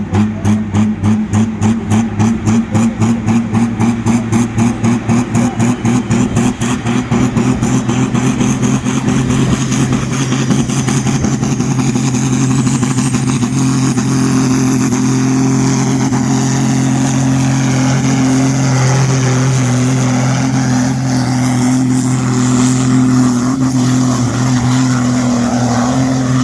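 Modified pulling tractor's engine running hard under load. It pulses about three times a second at first, then settles into a steady drone, with a high whine rising in pitch midway.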